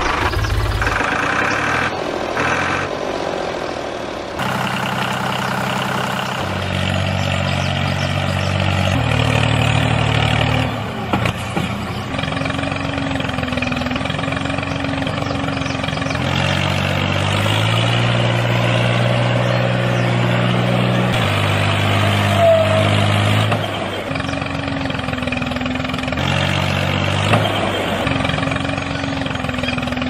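Tractor engine running, its pitch stepping up and down between steady levels every few seconds.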